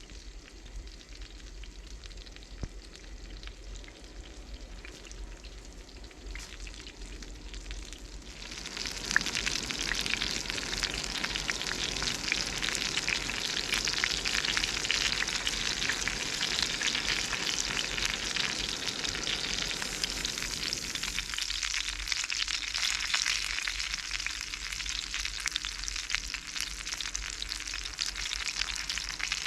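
Food frying in a pan, a dense sizzling and crackling that jumps much louder about eight seconds in and stays steady after that.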